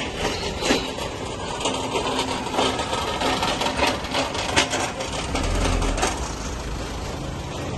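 Busy street-market ambience: scattered clattering and knocking over a steady low hum, with a low rumble swelling briefly about five seconds in.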